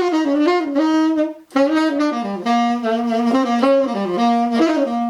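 Tenor saxophone (Buescher Aristocrat with a hard-rubber Brilhart mouthpiece) playing a jazz phrase of quick, moving notes, with a brief breath about a second and a half in. It is played on an old 1970s I.O.A. reed that the player finds unstable and not good.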